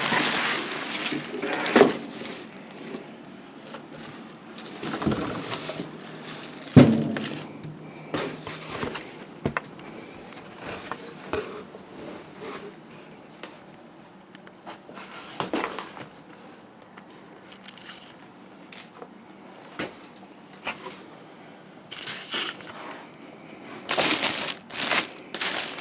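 Cardboard and plastic packaging rustling and crinkling in scattered bursts while a garbage disposal is handled out of its box, with knocks and one loud thump about seven seconds in.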